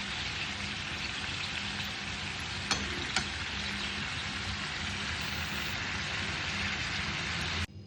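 Food sizzling as it fries in a hot pan, a steady hiss with two light clicks about three seconds in. The sizzle cuts off suddenly near the end.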